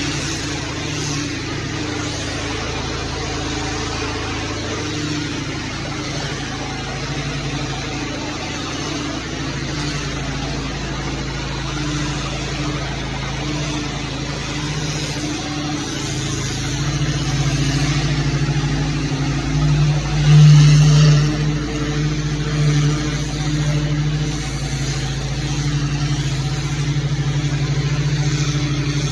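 Gas engine of pressure-washing equipment running steadily under a broad hiss. It grows louder about two-thirds of the way through, with a brief loudest swell soon after.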